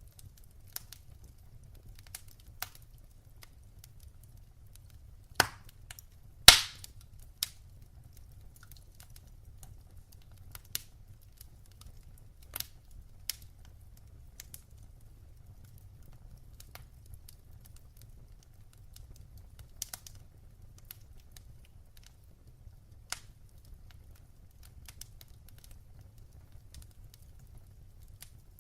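Fireplace fire crackling: scattered sharp pops and snaps, with two loud pops about five and six and a half seconds in, over a low steady rumble.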